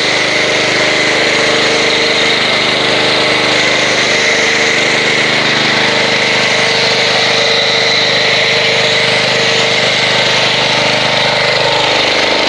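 Pressure washer running steadily while spraying soap through an MTM foam cannon, a loud hiss with a steady motor hum; near the end one tone drops in pitch.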